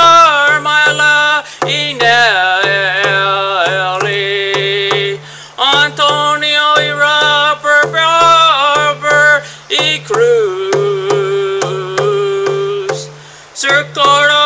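A man sings a chant-like melody with no clear words, holding long notes, over a steady low drum beat of about two beats a second. Voice and drum stop briefly near the end and then start again.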